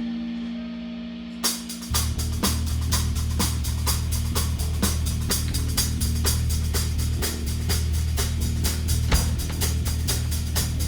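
Rock band playing an instrumental passage live: a held guitar chord fades, then about a second and a half in the drum kit comes in with rapid cymbal and drum hits, joined by heavy bass and distorted guitar.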